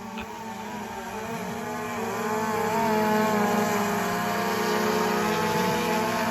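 DJI Mavic 2 quadcopter's propellers whining in flight: a chord of several steady tones that waver slightly in pitch, growing louder over the first few seconds and then holding.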